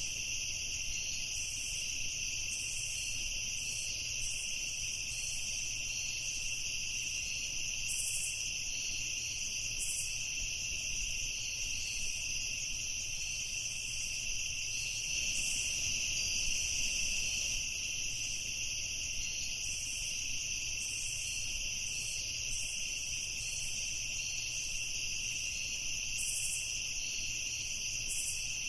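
Night chorus of crickets and other insects: a steady, high-pitched trilling that never lets up, with a few short higher flares from other insects here and there.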